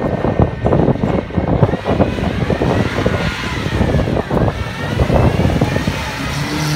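Off-road vehicle engine running under rough, dense noise, revving up and back down around the middle.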